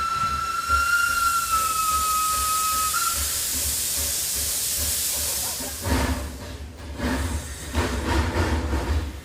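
Steam locomotive's whistle blowing one long steady note that stops about three seconds in, followed by a loud hiss of escaping steam, then slow exhaust chuffs about once a second.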